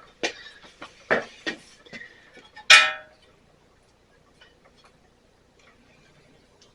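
A few light clicks and knocks, then one sharper metallic clink that rings briefly about three seconds in, from hands and tools working on a riding mower's wiring. No engine cranks or runs.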